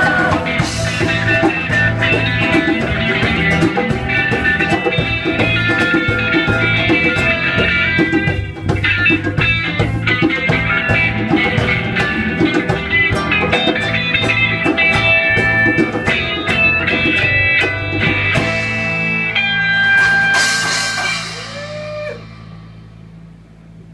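Live rock band playing an instrumental passage led by guitar over drums, dying down over the last few seconds.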